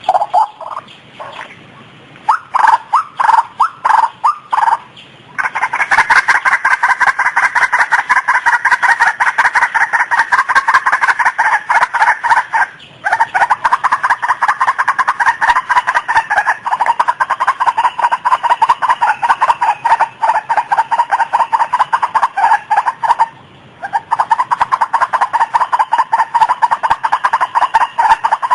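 White-breasted waterhen calling: a few separate bursts of harsh notes, then from about five seconds in a long run of rapid, repeated notes, broken by two brief pauses.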